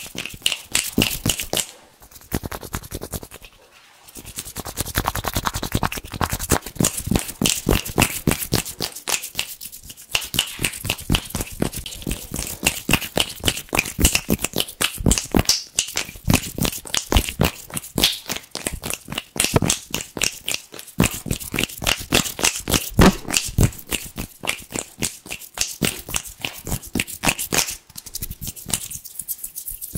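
Hands rubbed together fast and hard, a dense crisp crackling of rapid strokes, broken by two short pauses in the first few seconds.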